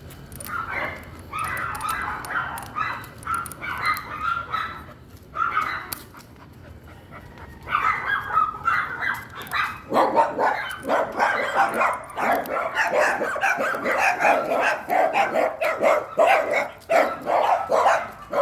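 A dog barking repeatedly in short bursts, pausing about six seconds in, then barking faster and louder from about ten seconds in.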